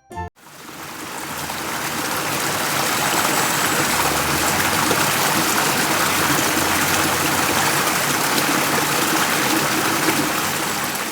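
Water running in a shallow stream. It makes a steady rushing, splashing sound that fades in over the first couple of seconds and fades out near the end.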